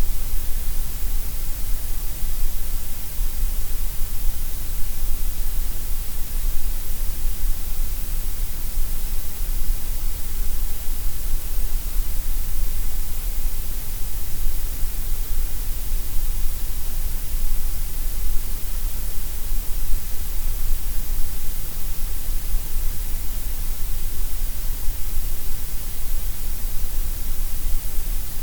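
Gray noise: a steady, unchanging synthetic hiss, strongest in the deep lows and the highs and thinner in the middle.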